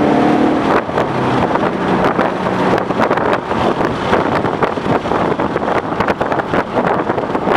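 2011 Ford Mustang GT's 5.0 V8 engine note, heard in about the first second and a half, then mostly wind buffeting the microphone over road noise as the car drives on.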